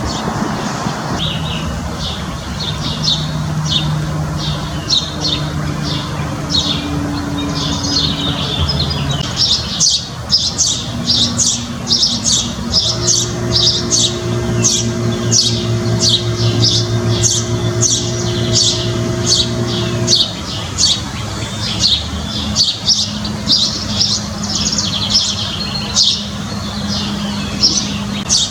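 Backyard birds chirping and squawking, many short calls in quick succession. A steady low hum runs underneath and shifts pitch a few times.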